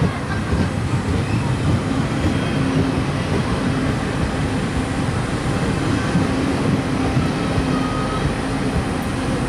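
Passenger coaches of a train rolling past close by: a steady rumble of steel wheels on the rails.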